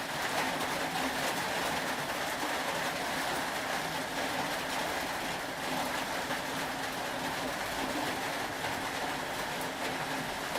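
Steady rain: an even hiss with many fine ticks of drops throughout.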